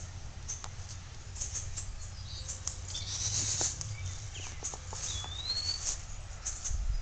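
Rustling and light clicks over a low rumble, with a few short bird chirps, one a rising whistle about five seconds in.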